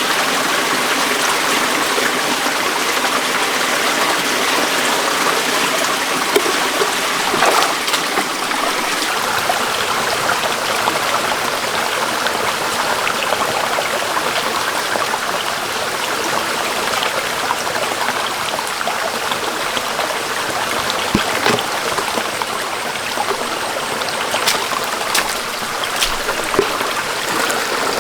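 Shallow stream flowing steadily over rocks, with a few short knocks scattered through it.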